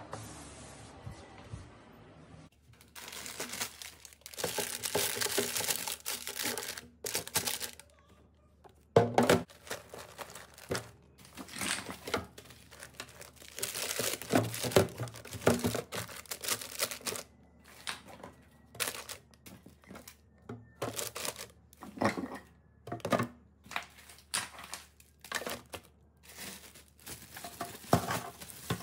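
Packaging being handled: crinkling and rustling in two long spells, with many short crackles and taps between them.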